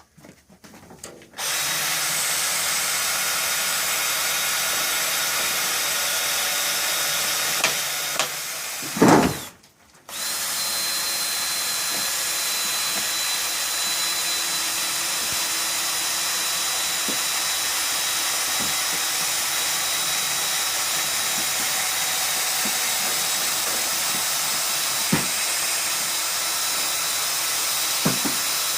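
A power tool's electric motor running steadily. It stops about nine seconds in with a brief louder low sound, then starts again a second later and runs on.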